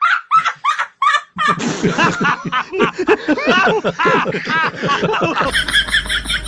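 Snickering laughter in quick, rapid bursts, with music coming in about five and a half seconds in.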